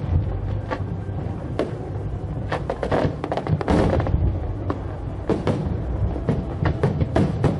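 Aerial fireworks display going off: an irregular string of sharp bangs and crackles, a few each second, over a continuous low rumble.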